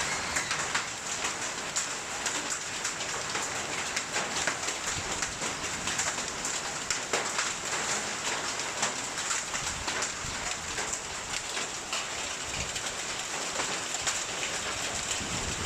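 Hailstorm: heavy rain with hailstones pelting down, a dense steady hiss scattered with many sharp ticks of stones striking.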